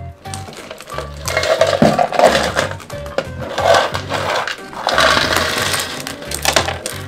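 Crushed stone being poured into a stainless-steel bin around a tin can, rattling and clattering against the metal in several pours, over background music with a steady bass beat.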